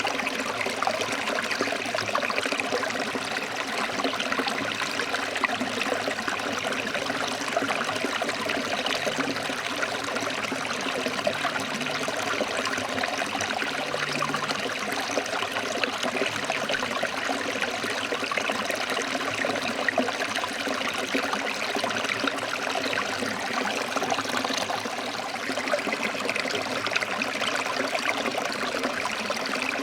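A forest stream running over rocks: a steady, continuous rush and trickle of flowing water.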